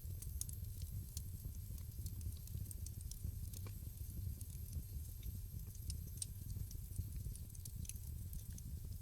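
Wood fire crackling in a fireplace: frequent irregular snaps and pops over a low, steady rumble of burning.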